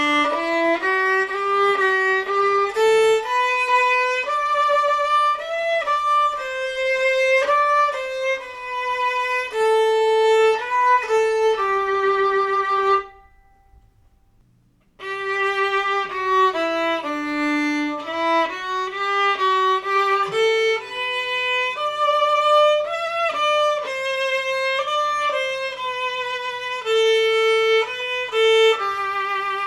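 Solo violin, a newly made, handcrafted instrument, playing an unaccompanied melodic phrase. It stops about 13 seconds in, and after a two-second gap a similar phrase is played again, heard in a separate take, as one half of a before-and-after-varnish tone comparison.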